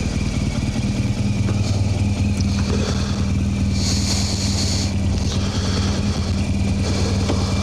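BMW R1200GS motorcycle's flat-twin engine running steadily at an even speed, a constant low hum with no revving.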